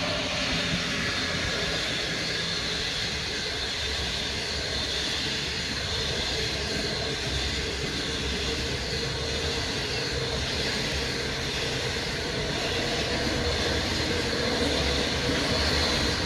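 Passenger train running along the track: a steady rolling rumble and rush of noise, a little louder near the end.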